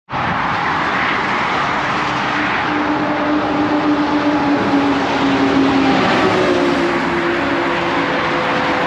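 Road vehicle on the move: a steady rush of wind and tyre noise with engine tones that slowly fall in pitch.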